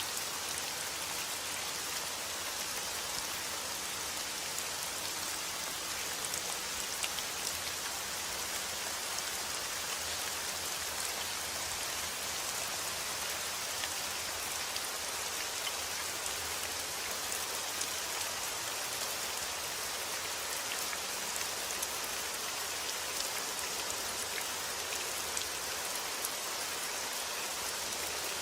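Steady rain falling, a dense even hiss of drops with small individual patters scattered through it.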